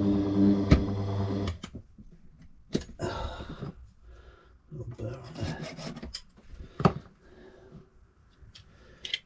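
A small power tool hums for about a second and a half and then stops. After it come short rubbing, filing strokes and sharp clicks as a safe-lock key blank is cut and worked by hand.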